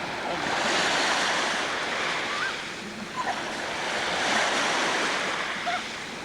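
Small waves washing onto a beach, the surf swelling and easing twice.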